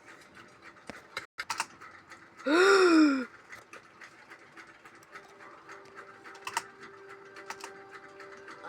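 Light clicks and taps of a small vinyl toy figure being handled, with one short loud sound that rises and then falls in pitch about two and a half seconds in. A faint steady tone comes in over the last few seconds.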